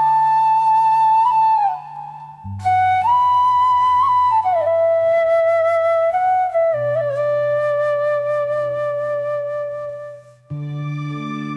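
Background music: a slow flute melody with sliding, ornamented notes over sustained low chords. The melody pauses briefly about two seconds in, and new, higher chords enter near the end.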